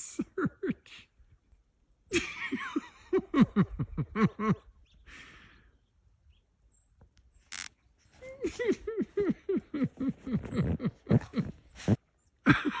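Dog vocalizing excitedly in rapid short calls, each falling in pitch, about four a second, in two runs with a quiet gap of a few seconds in the middle.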